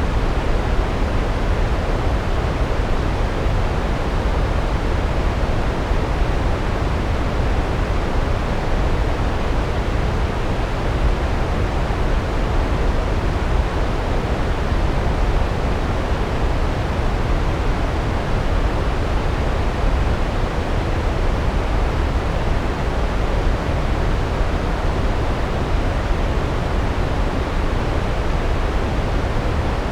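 Large waterfall cascading down rocks: a steady, unbroken roar, heaviest in the low end.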